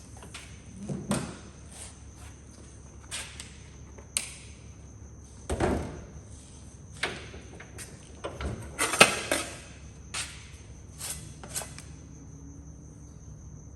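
Irregular knocks and clatters of tools and metal being handled and set down, loudest about nine seconds in, over a steady high-pitched tone.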